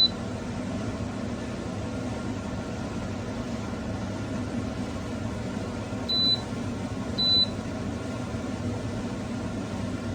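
Touch-screen toaster's electronic beeper sounding three short high beeps of one pitch: one at the start, then two about a second apart six to seven seconds in, over a steady background hum.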